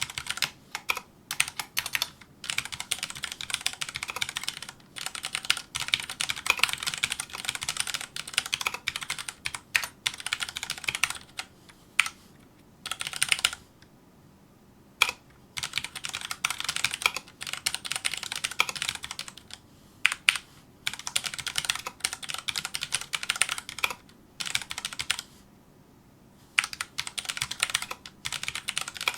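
Fast touch-typing on a Filco Majestouch2 mechanical keyboard with Cherry MX Brown switches: dense runs of key clacks in bursts of a few seconds, broken by short pauses.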